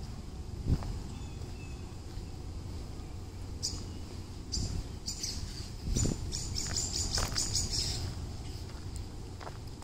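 Songbirds chirping in quick series of short high notes, busiest from about four to eight seconds in, over a steady low rumble. A sharp thump about a second in, and another around six seconds.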